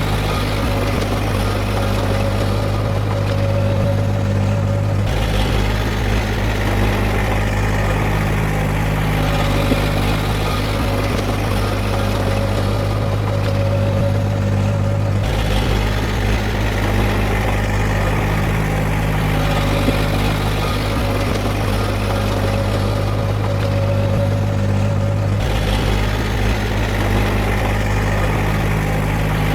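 Heavy diesel engine of earthmoving machinery running steadily with a low hum. Its tone shifts abruptly about every ten seconds.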